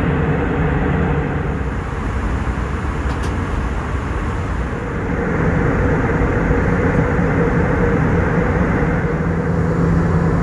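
Airbus A319 cabin noise in flight: a steady roar of engines and airflow with a low hum running through it.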